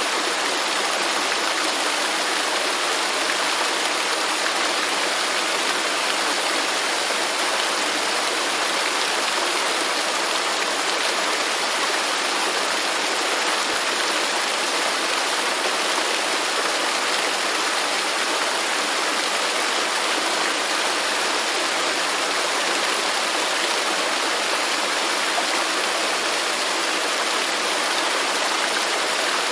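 Waterfall rushing steadily, a dense even hiss of falling and splashing water with no change in level.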